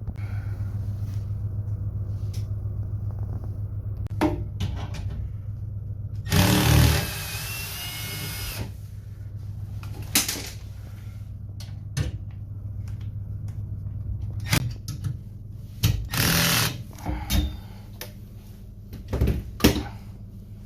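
A power drill runs in two bursts, about two seconds long some six seconds in and briefly again near 16 seconds, while fans are fitted to a freezer evaporator. A steady low hum runs underneath, and scattered knocks of parts being handled come through.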